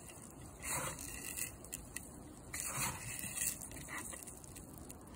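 Loose bird seed rustling and pouring in a container, in about five short bursts.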